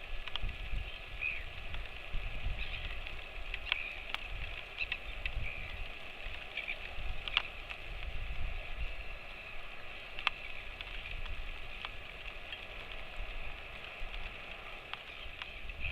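Steady rain, with scattered sharp drops ticking on nearby surfaces and an uneven low rumble underneath.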